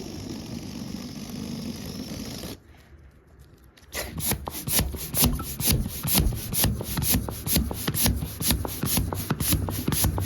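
A rubber balloon being rubbed by hand: a steady rubbing at first, a short lull, then quick repeated rubbing strokes, several a second, from about four seconds in.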